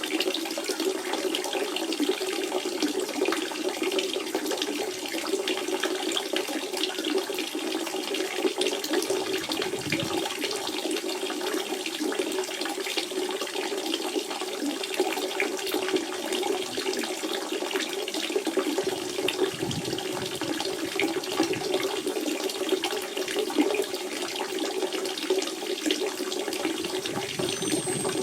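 Natural spring water running and splashing in a steady, continuous flow, with a strong gurgle in the lower middle.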